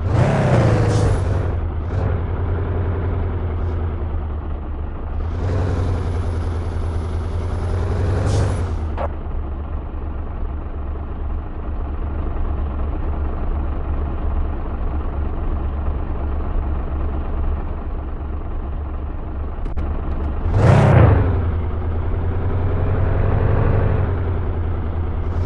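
Fiat Doblo van's engine running while driving, its pitch rising and falling with the revs. A louder rushing sound comes in about five seconds in and lasts for about three seconds, and there is a brief sharp swell about twenty-one seconds in.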